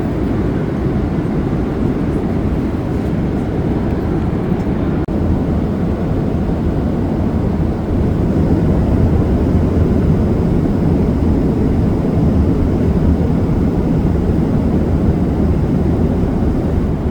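Airliner cabin noise: the steady low rumble of the jet engines and airflow, growing a little louder about eight seconds in.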